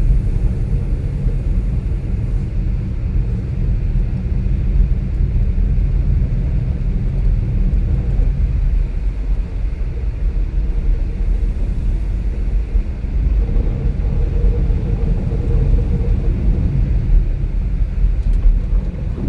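A car driving on the road, with a steady low rumble of engine and tyre noise.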